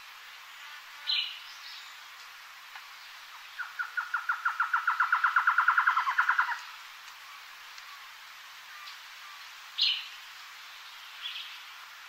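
Birdsong: a rapid trill of about nine notes a second that grows louder over about three seconds, with a short high chirp shortly before it and another near the end.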